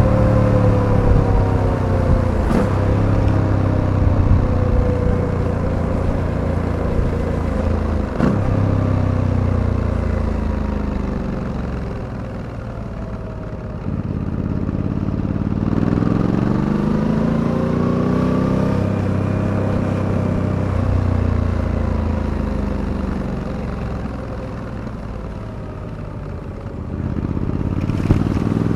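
Suzuki V-Strom 800DE's parallel-twin engine running on the road, its note falling as the bike slows for the first twelve seconds or so, pulling up again about halfway, dropping once more and rising again near the end. Two short clicks sound in the first third.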